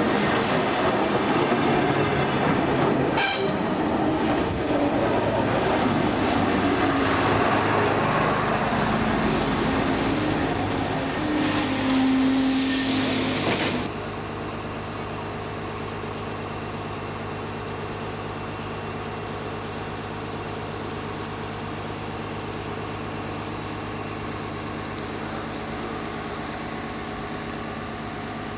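A commuter train passing close by at speed, its wheels running loud on the rails; this cuts off suddenly about halfway through. Then a DT1 diesel-electric multiple unit standing still, its diesel engine idling with a steady low hum.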